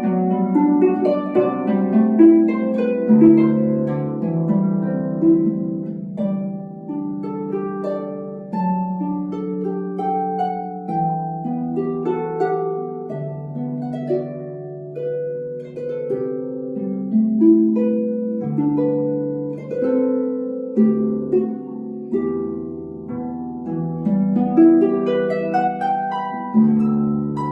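Solo concert harp playing: plucked notes and chords ringing over one another above sustained low bass notes.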